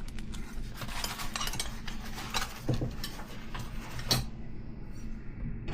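Metal wrenches clinking and rattling against each other as tools are handled, with a sharper clink about four seconds in.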